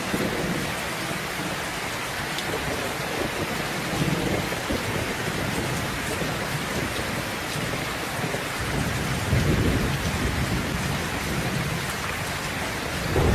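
Steady rain with low rolling rumbles of thunder. The strongest roll comes about two-thirds of the way through, and another starts near the end.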